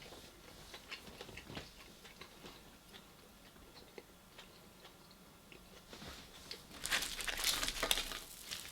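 A person chewing food close to the microphone, with small wet mouth clicks, then a louder run of crackling for about a second and a half near the end.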